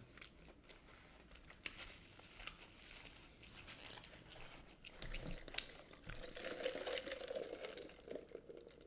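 Faint crinkling of food packaging with scattered small clicks and crunches of someone eating.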